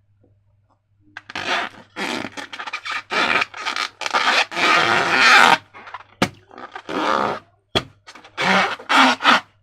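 Slime being squeezed and worked by hand, a run of irregular wet, rasping squelches starting about a second in, with two sharp clicks a little past the middle.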